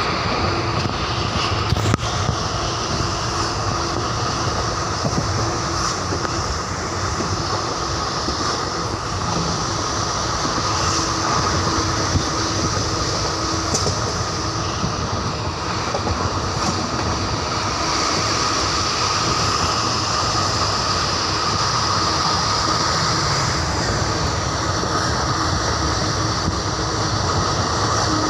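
Express passenger train running along the track: a steady rumble and rush of the coach wheels on the rails.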